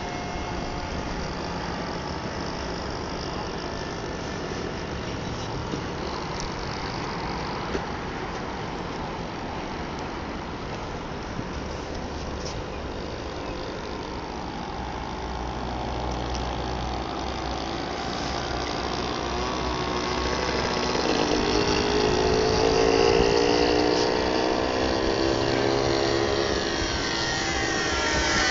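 The DLE-20 single-cylinder two-stroke gas engine of a radio-controlled Cessna 182 model flying overhead, running steadily. It grows louder over the last third and its pitch bends as the plane comes past.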